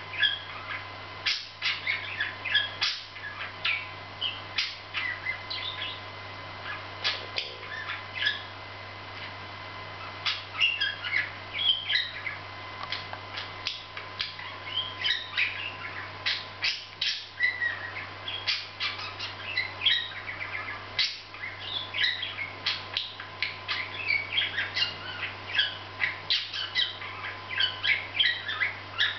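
Budgerigars chattering: a steady stream of quick, irregular chirps, warbles and clicks. A faint steady electrical hum and a thin tone sit underneath.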